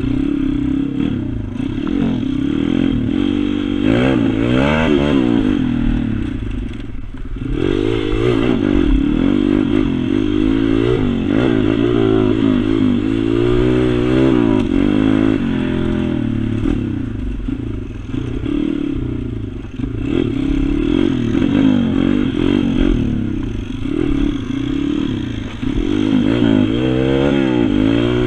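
Pit bike engine revving up and easing off over and over as it is ridden around a track, with the pitch rising and falling every few seconds and a brief drop about seven seconds in.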